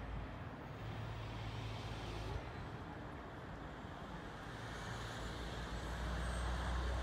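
Steady low rumble and hum of a New Jersey Transit passenger train heard from down the track, swelling a little louder near the end.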